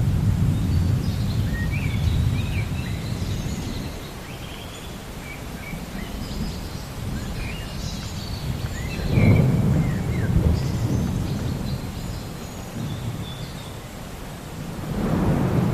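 Low rolls of distant thunder swelling and fading, loudest about nine seconds in and again near the end, over a steady rain-like hiss, with small birds chirping.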